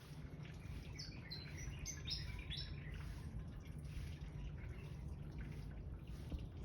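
A fantail singing: a quick run of about six short, high, squeaky whistled notes that step down in pitch, over a steady low background rumble.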